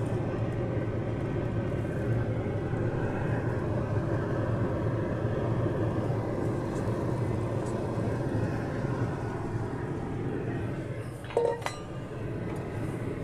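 Halved potatoes frying in butter and olive oil in a hot cast iron skillet, a steady sizzle, with one brief louder sound about eleven seconds in.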